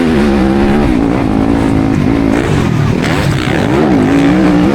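Yamaha YZ250FX four-stroke dirt bike engine racing hard, its revs rising and falling repeatedly as the throttle opens and closes, over a steady rush of noise.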